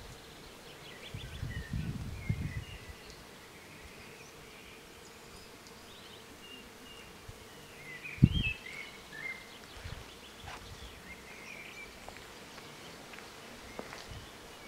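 Small birds chirping and twittering in short phrases, with a few low thuds, the loudest about a second in and again just past the middle.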